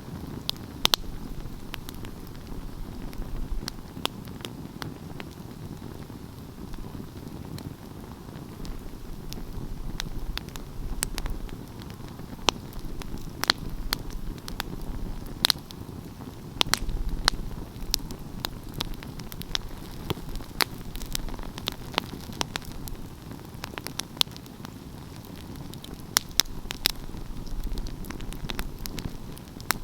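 Wood fire crackling: sharp pops and snaps at irregular intervals, some much louder than the rest, over a low steady rumble of the burning fire.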